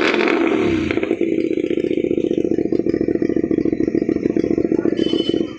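Motorcycle with a loud aftermarket exhaust: the revs fall back in the first second, then the engine idles with a rapid, even exhaust beat. It stops abruptly near the end.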